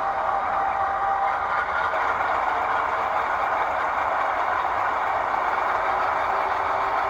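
Diesel locomotive engine running steadily, a recording of a real locomotive.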